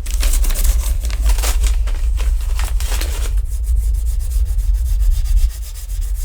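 Loud rubbing, scraping noise over a steady low rumble. A little over three seconds in, the coarse strokes give way to a finer, more regular scratching.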